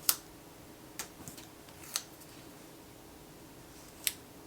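A few sharp clicks and taps from handling sticker sheets and a paper planner, five in all, spread unevenly, over a faint steady room hum.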